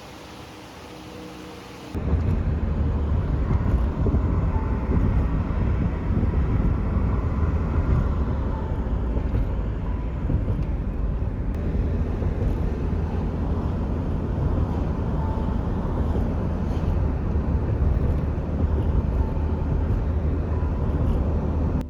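A loud, steady low rumble of noise that starts suddenly about two seconds in.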